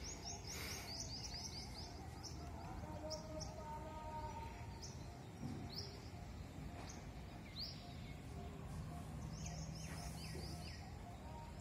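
Small birds chirping: a quick run of short, falling high notes at the start, a few single chirps midway, and another quick run near the end, over a steady low background hum of the neighbourhood.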